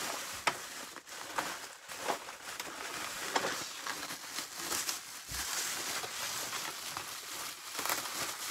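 Packaging being handled as a boxed vacuum cleaner is unpacked: continuous rustling and crinkling with a few sharp clicks.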